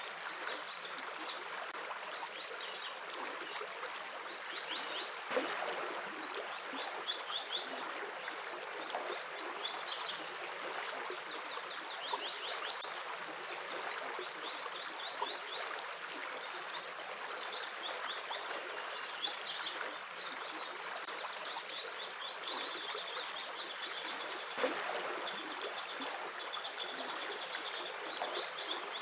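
A stream of water running steadily, with birds singing over it: repeated quick runs of short, high, falling notes coming every second or two.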